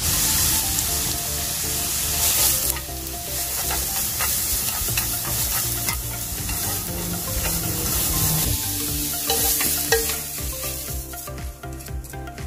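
Julienned carrots sizzling in oil in a frying pan as they are stirred and tossed. The sizzle is loudest in the first few seconds and dies away near the end, with a few light clicks along the way.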